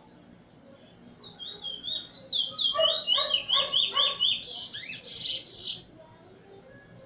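A caged finch sings one song, about four and a half seconds long: a fast run of repeated whistled notes that ends in a few louder, harsher notes.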